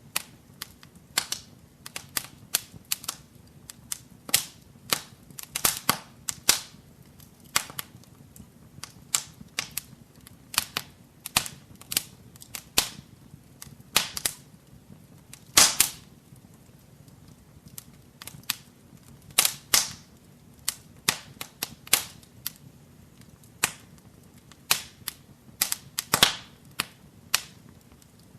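Wood fire crackling in a fireplace: irregular sharp pops and snaps, a few a second, some louder than others, over a faint low hiss of the flames.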